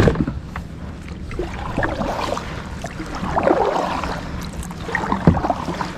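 Sounds of a fishing kayak on the water: a few sharp knocks on the hull and a short rush of water about halfway through.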